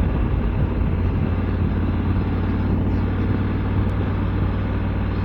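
Honda Africa Twin's 1084 cc parallel-twin engine running at steady revs, with a constant rush of wind and road noise over it.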